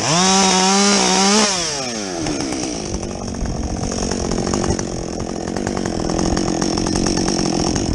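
Husqvarna 562XP two-stroke chainsaw with a modified muffler, held at full throttle for about a second and a half, then dropping back to a rough idle.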